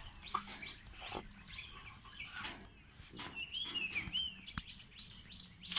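A few faint, high bird chirps around the middle, with soft scattered scuffs and clicks.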